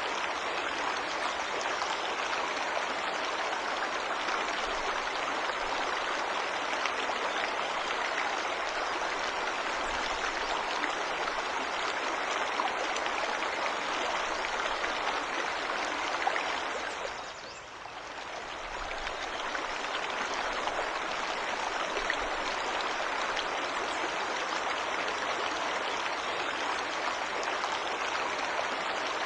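Waterfall rushing steadily, a dense, even splashing of water. The sound fades down briefly about seventeen seconds in, then comes back up to full level.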